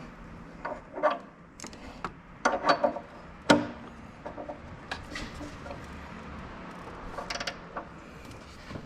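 Hand tools and metal parts clinking and clicking irregularly during work on the car, with a sharp metallic clank about three and a half seconds in.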